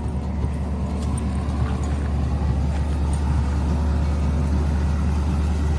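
Classic car engine running with the throttle held slightly open, a deep steady rumble that rises a little in the first couple of seconds and then holds.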